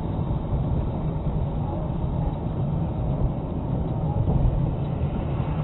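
Steady low rumble of a car on the move, road and engine noise picked up by a dash cam's microphone.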